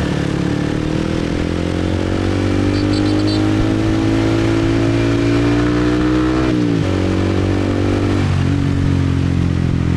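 Motorbike engine under way, its pitch rising steadily for about six seconds as it accelerates, then dropping sharply and settling at a lower steady note.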